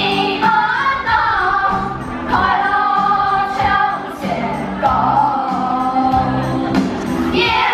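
Several voices singing a Hakka children's song in unison over an instrumental backing, with steady bass notes keeping the beat.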